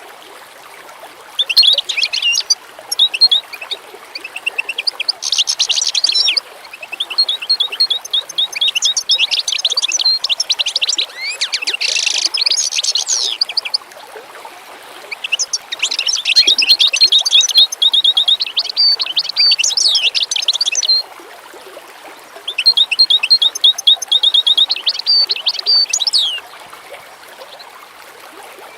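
Songbirds singing: phrases of rapid, high chirps and trills lasting several seconds each, separated by short pauses, over a faint steady hiss.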